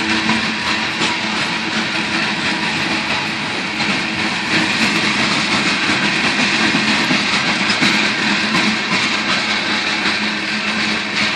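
Long CSX grain train's covered hopper cars rolling past, a steady rumble of wheels on rail with clickety-clack over the rail joints.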